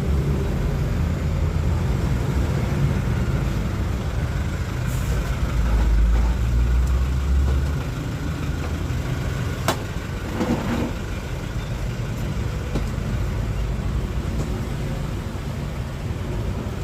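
Steady low rumble of passing motor traffic, heaviest in the first half and easing after about eight seconds, with one sharp click near the middle.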